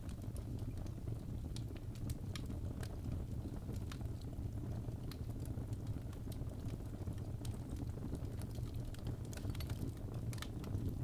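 Fireplace fire crackling: irregular sharp pops and snaps over a steady low rumble of the burning.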